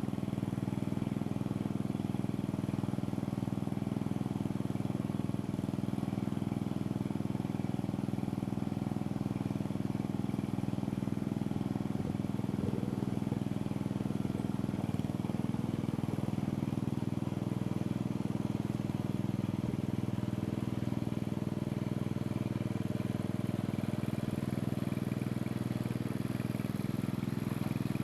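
Small lawn mower engine running steadily at an even speed.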